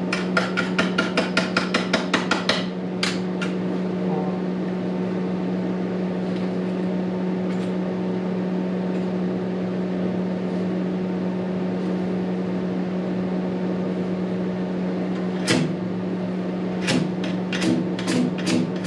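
A hammer tapping on steel: a quick run of light taps, about five a second, for the first couple of seconds, then single taps, and a few more taps near the end. A steady low machine hum runs underneath throughout.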